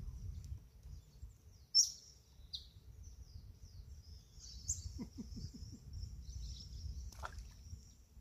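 Small birds chirping again and again, the loudest chirp about two seconds in, over a low, steady wind rumble on the microphone. A short splash comes near the end as a small fish goes back into the water.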